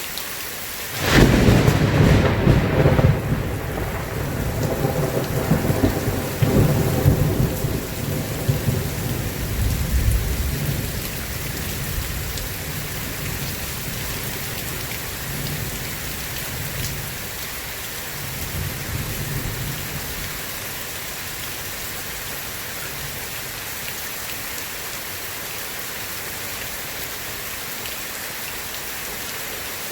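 Steady rain falling throughout. About a second in, a sharp thunderclap breaks into a long rolling rumble that fades over roughly ten seconds, and fainter rumbles of thunder follow later.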